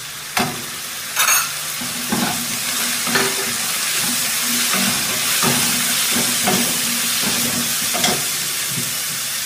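Chopped vegetables frying in oil in a nonstick kadai, sizzling steadily, while a spatula stirs and scrapes against the pan several times. The sizzle grows louder about a second in, as a spoonful of soy sauce goes into the hot pan.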